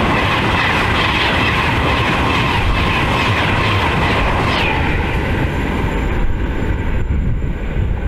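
A Class 390 Pendolino electric train passing close at speed: a loud, steady rush of wheel and air noise, with a high whine that stops about halfway through.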